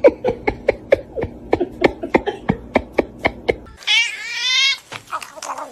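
A domestic cat calling: a fast run of short, clipped calls at about four a second, then one longer meow about four seconds in.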